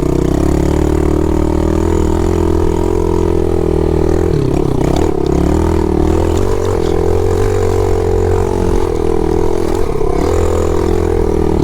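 Pit bike's small single-cylinder engine running at steady part throttle as it is ridden along a trail, with short dips in revs about four and a half seconds in and again about ten seconds in.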